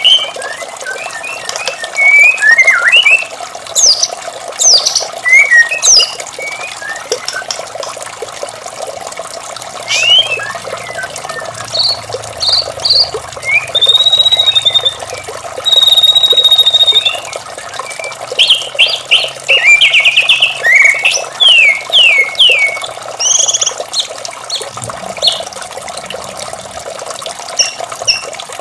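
White-rumped shama singing a varied song of short whistles, chirps and quick trills, with a couple of longer held whistles about halfway through, over a steady sound of running water.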